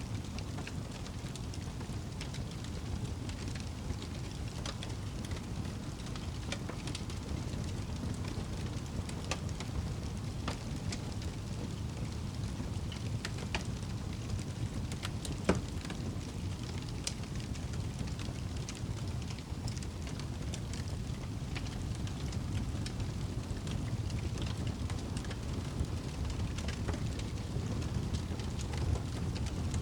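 Campfire crackling: scattered sharp pops and snaps from the burning wood, one sharper pop about halfway through, over a steady low rumbling background.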